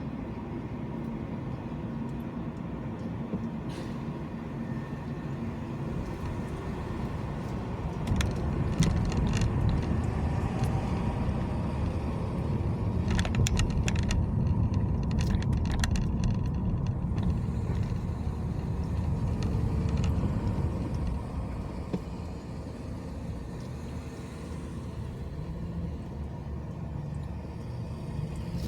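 Car driving on city roads: a steady low rumble of tyres and engine that swells about a third of the way in and eases off near the end, with a few short clicks or rattles in the middle.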